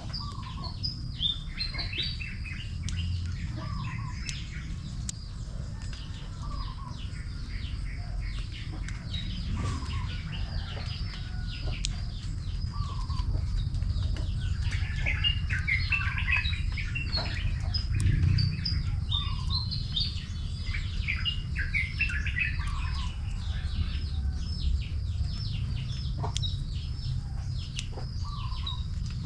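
Birds chirping and calling, with a short call repeating every second or two among busier twittering, over a steady low rumble. A few faint sharp clicks come through now and then.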